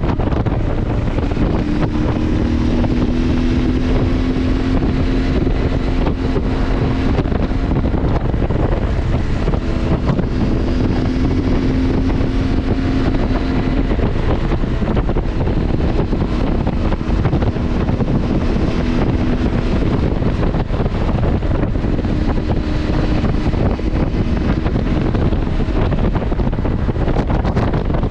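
CFMoto motorcycle engine running at a steady speed while riding, under heavy wind noise buffeting the microphone.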